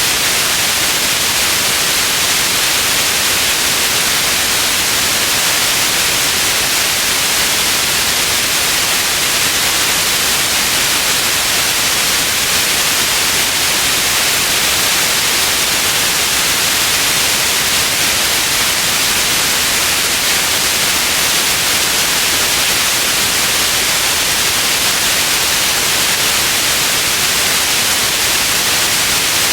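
Steady white noise: a constant even hiss, strongest in the high end, with no change throughout.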